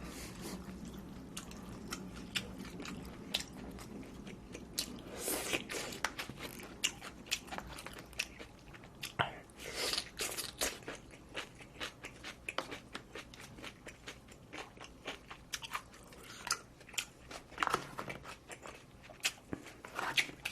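A person chewing and biting food close to the microphone: irregular crunchy and wet clicks, with louder bites about five, ten and eighteen seconds in.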